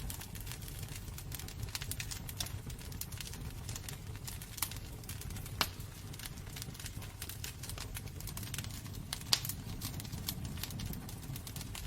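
Wood fire crackling in a fireplace: irregular sharp pops and snaps over a steady low rumble of the flames, with one louder pop about nine seconds in.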